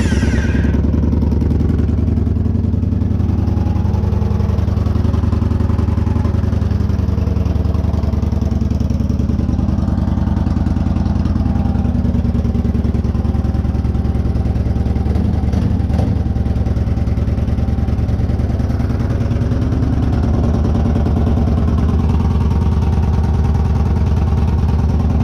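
2014 Victory Cross Country Tour's 106 cubic inch V-twin, just caught on its first start after a salvage rebuild, idling steadily with no mufflers fitted; it sounds healthy.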